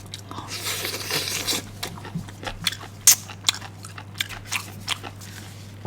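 Crunchy biting and chewing of pickled bamboo shoots close to the microphone: a string of irregular sharp crunches, over a low steady hum.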